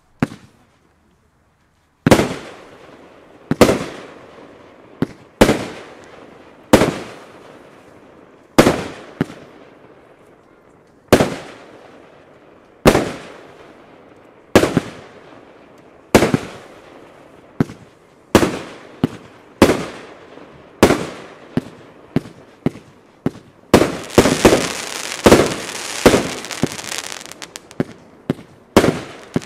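A 36-shot, 28 mm consumer fireworks cake firing. It begins about two seconds in with single sharp bangs, roughly one every one to two seconds, each trailing off as it fades. From about 24 s in, the shots come in a dense, rapid barrage.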